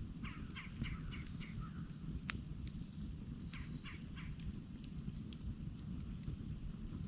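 Campfire crackling, with scattered sharp pops over a steady low rush; the sharpest pop comes a little past two seconds in. A bird calls in a quick series of about six short notes near the start, and again briefly around the middle.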